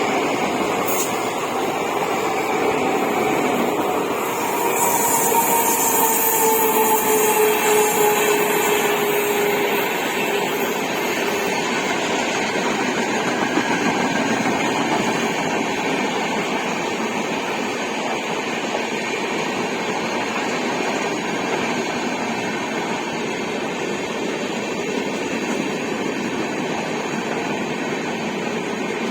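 An express train hauled by a WAP-7 electric locomotive runs past, with a steady, loud rumble of wheels and coaches on the rails. Between about four and ten seconds in, a faint tone slides slowly down in pitch.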